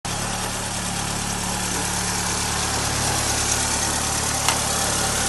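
1.8-litre car engine idling steadily, with one sharp click about four and a half seconds in.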